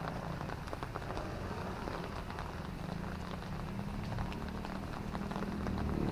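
Drizzling rain, with many small drop ticks over a steady hiss, and a low rumble of city traffic that grows louder near the end as a vehicle approaches.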